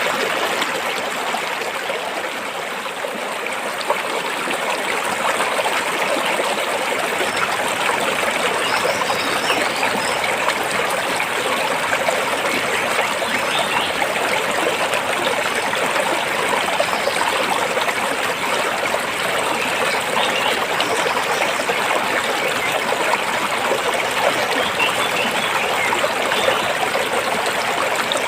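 Stream water flowing and splashing over rocks, a steady unbroken rush.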